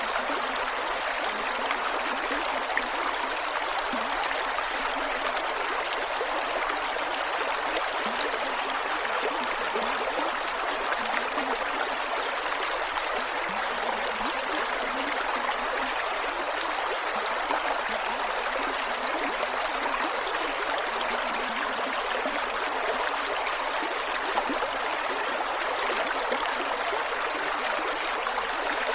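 Creek water flowing over rocks, a steady rushing with small gurgles and trickles.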